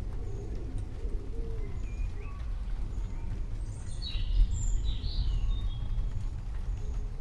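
Birds calling over a steady low rumble, with low wavering coos early on and a brief burst of high chirping about four seconds in.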